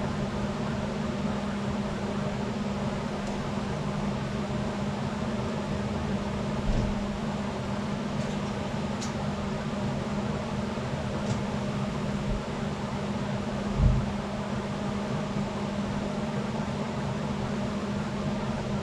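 A steady mechanical hum, like a running fan or motor, with two dull thumps, one about seven seconds in and a louder one about fourteen seconds in.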